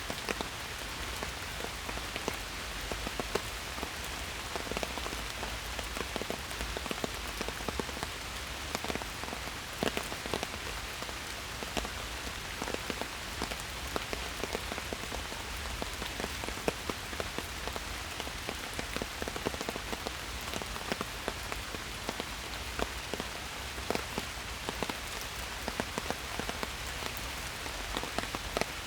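Steady rain falling in a forest, an even hiss with many individual drops ticking close by throughout.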